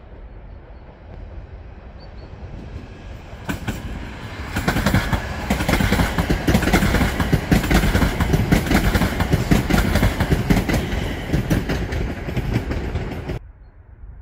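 Regional electric multiple unit passing close by, its wheels clattering rapidly over the rails. It builds over the first few seconds, runs loud for about nine seconds, then cuts off suddenly near the end.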